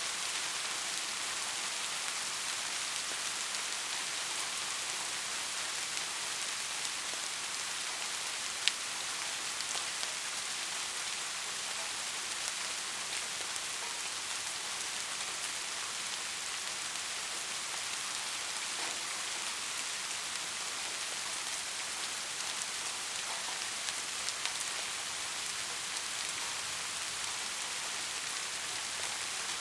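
Heavy rain falling steadily, a dense even hiss with scattered individual drops ticking; one sharper drop hit comes about nine seconds in.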